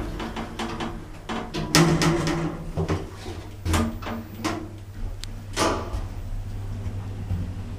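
Clunks and knocks of a swing-door lift's doors and latches being worked, several in a row and loudest about two seconds in, over a steady low hum.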